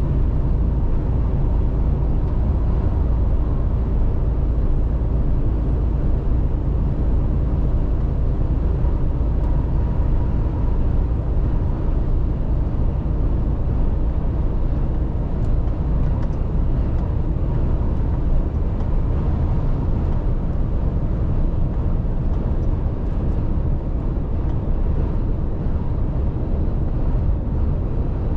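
Mercedes-Benz Actros truck driving at a steady pace: an even low drone of the running truck and its tyres on the road, with no change in speed or gear.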